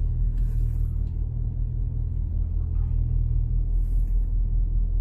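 Idling vehicle engine: a steady low rumble and hum.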